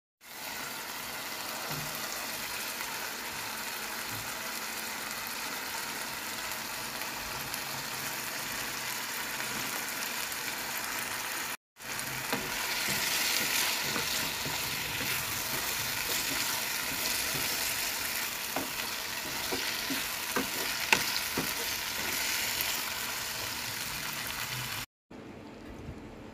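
Sauce of sliced onion and chilies sizzling in a wok. After a cut, chicken and eggplant pieces are stir-fried in the sauce: louder sizzling with a spatula scraping and knocking against the wok. The sizzling stops abruptly shortly before the end.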